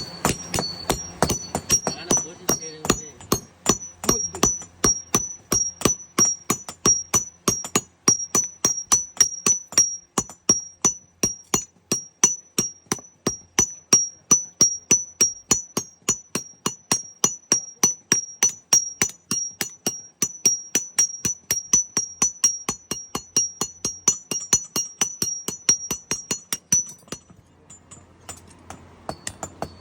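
Blacksmith's hammer striking metal on an anvil in a steady rhythm of about three blows a second, each blow leaving a high ring. The hammering stops about three seconds before the end.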